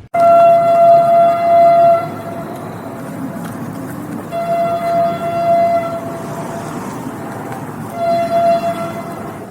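Train horn sounding three blasts, the first two long and the last shorter, over the steady rumble of the moving train. The sound begins and ends abruptly.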